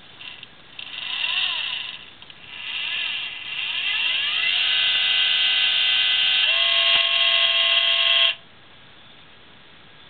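Celestron CG-5 equatorial mount's motors whining as it slews: two short bursts, then a longer run whose pitch rises as the motor speeds up, holds steady for a few seconds with a small jump in pitch, and cuts off suddenly.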